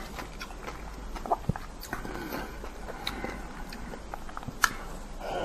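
Close-miked mouth sounds of a person chewing soft fruit: scattered wet clicks and smacks, with a sharper click near the end.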